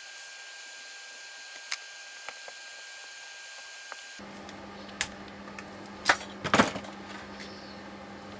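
Metal parts and tools clicking and knocking against each other while a steering rack is taken apart: a few light clicks, then a short cluster of sharper metallic knocks about six to seven seconds in.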